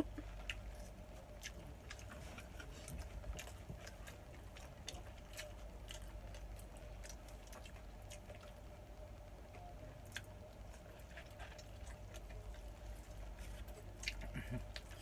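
A person chewing and eating, with scattered small clicks and smacks throughout, over a steady low hum.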